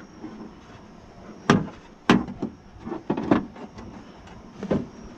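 A handful of separate sharp knocks and clacks, scattered irregularly, from parts and tools being handled against a car door while a window regulator is fitted.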